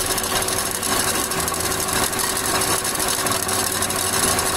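GM Uplander's V6 engine running with its serpentine belt and pulleys turning: a steady mechanical noise with a constant tone through it. The noise comes from a damaged water pump.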